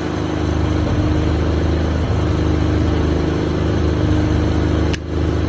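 Manual battery load tester drawing a heavy load from a 12-volt deep-cycle battery, giving a loud, steady low electrical hum, with a sharp click about five seconds in.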